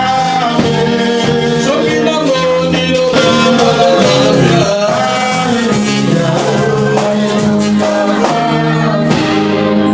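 Live church worship music: voices singing a worship song over instrumental accompaniment with a steady percussive beat.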